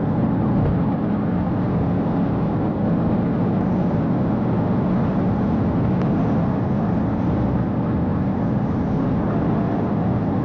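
Police cruiser in a high-speed pursuit: steady engine, tyre and wind noise with a constant level and no breaks.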